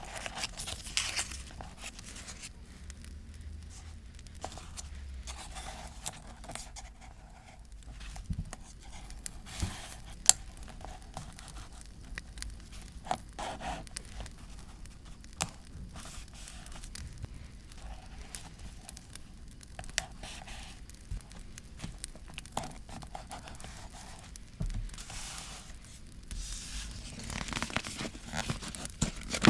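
Paper being handled for scrapbooking: crinkling and tearing of paper, with scattered sharp clicks and taps. The crinkling grows denser near the end.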